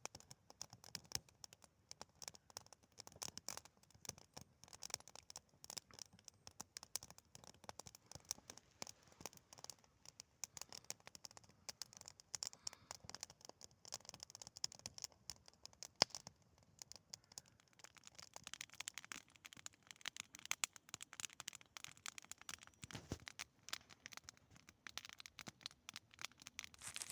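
Wood fire crackling: faint, irregular snaps and pops, growing a little busier later on.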